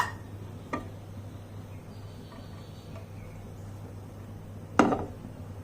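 A utensil knocking against a nonstick pan: a light click under a second in and a sharper, louder knock near five seconds, over a steady low hum.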